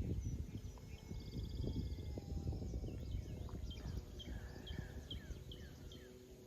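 Songbirds calling: a short, rapid trill about a second in, then a run of about six short chirps, roughly three a second, in the second half. A steady low rumble runs under them.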